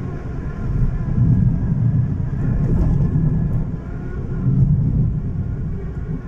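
Strong dust-storm wind and a moving car's road noise making a low rumble that swells in gusts, loudest about a second in and again past the four-second mark.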